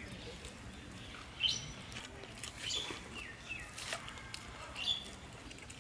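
Birds chirping in short, scattered calls, with a sharp click about four seconds in.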